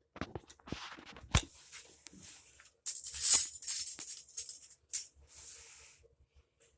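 Small metal tools and parts clinking and rattling as they are handled and sorted, with a couple of sharp clicks about a second and a half in and a loud jangling stretch from about three to four seconds in.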